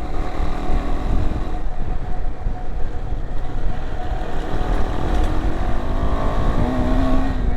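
A vehicle driving along a dirt road: steady engine and road noise, with the engine note rising a little near the end.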